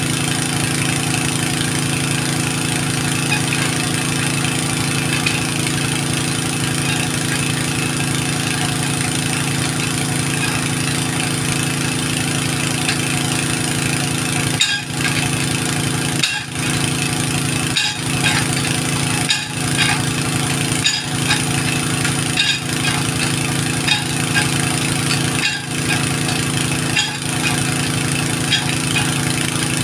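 An engine running steadily. From about halfway, the sound dips briefly every second or two.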